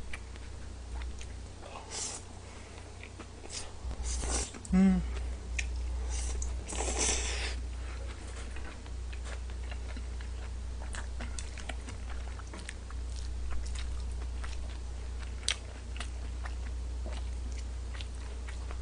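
Close-miked chewing of a mouthful of stir-fried udon noodles: soft wet mouth clicks, with a few louder slurping and mouth noises in the first half, over a low steady hum.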